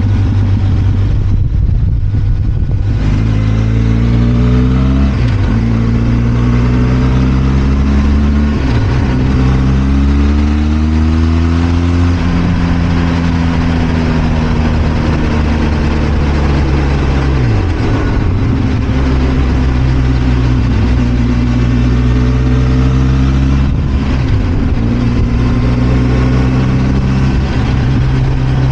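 Benelli TRK 502 X's parallel-twin engine under way, accelerating through the gears: the note rises and drops back at each of three upshifts, then settles into a steady cruise. It eases off and picks up again partway through.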